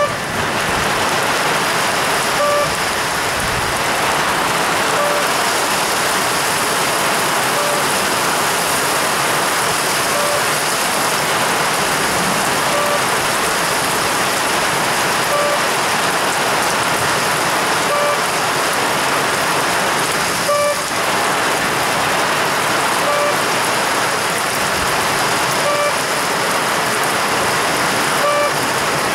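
Heavy downpour: a steady hiss of rain falling on the platform, tracks and shelter roof. A short beep repeats about every two and a half seconds, and there is a single click about twenty seconds in.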